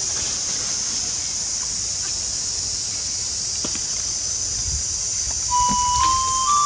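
A steady high-pitched hiss with no rhythm. Near the end a few plain single notes step upward, as a tune begins.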